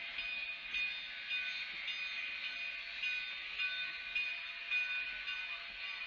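Narrow-gauge steam train's passenger coaches rolling past, wheels clicking and clattering irregularly over the rails under a steady hiss, heard thin through a webcam microphone.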